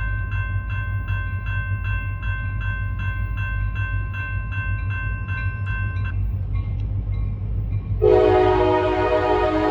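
Diesel freight locomotives rumbling past, with a bell ringing steadily at about two and a half strikes a second until about six seconds in. About eight seconds in, a loud multi-note air horn starts and holds to the end.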